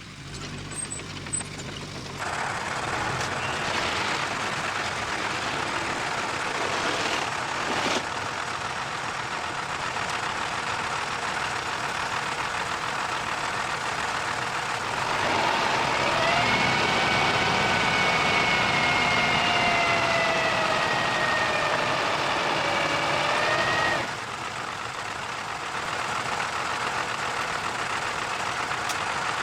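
Heavy earth-moving machinery running: diesel engine noise with mechanical clatter, changing abruptly a few times. About halfway through, a steady high whine joins in for several seconds, slowly dropping in pitch, then stops suddenly.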